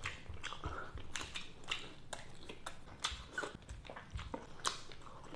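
Close-up chewing and crunching of crispy fried shrimp, a run of irregular crackles and mouth clicks.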